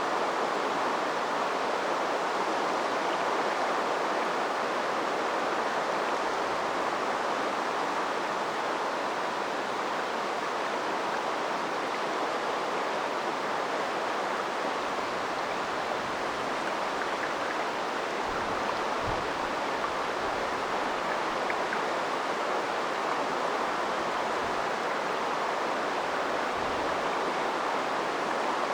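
Shallow river flowing steadily, with an even, continuous rush of water over rocks.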